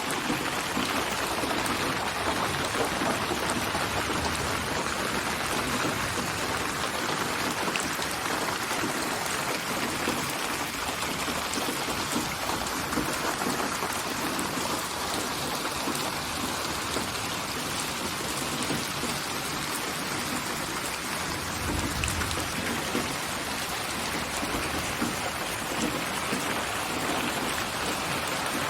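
Steady rain falling, a dense even patter, with a brief low rumble about three-quarters of the way through.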